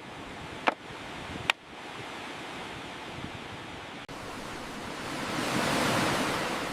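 Sea surf washing steadily, with two sharp knocks about a second in, and a wave swelling louder and breaking near the end.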